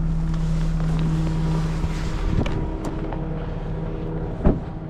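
Tow truck engine running steadily with a level hum, with a light click about two seconds in and a sharp knock near the end.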